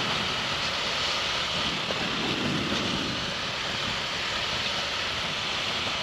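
Steady wind rush and road noise on the microphone of a rider on a moving motorcycle.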